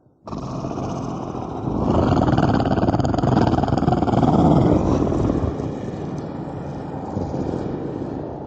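A recorded sound effect: a long rumbling roar that starts suddenly, swells in the middle and slowly fades away.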